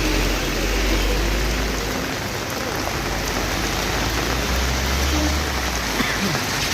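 Steady rain-like hiss, with a heavy vehicle engine's low rumble underneath for the first two seconds and again around five seconds in.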